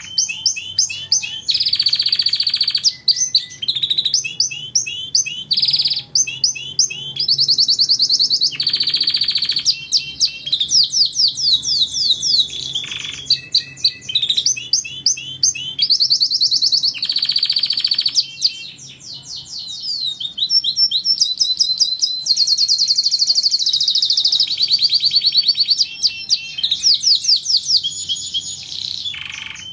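Domestic canary singing a long, continuous song of fast trills and rolls, repeated notes changing from phrase to phrase with hardly a pause. This is canary 'masteran', song recorded for other songbirds to learn from.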